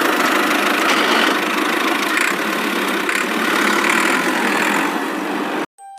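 A motor running steadily, then cutting off abruptly near the end.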